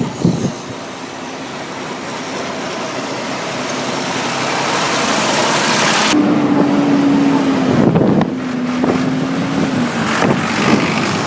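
Tractors driving past, the engine noise building over several seconds. About six seconds in the sound changes abruptly to one steady engine note that sinks slightly in pitch, with a few knocks.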